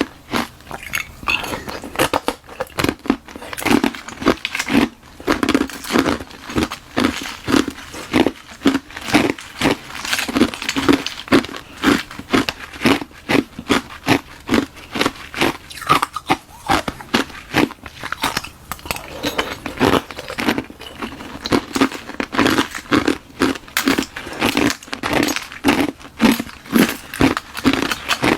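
Close-miked crunching as hard ice is bitten and chewed: a hollow ice shell frozen in a balloon, filled with frozen milk tea. It is a steady run of sharp crunches, a few a second.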